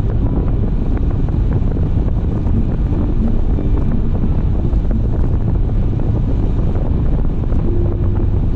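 Steady road and wind noise of a car driving at speed, with wind buffeting the dashcam microphone.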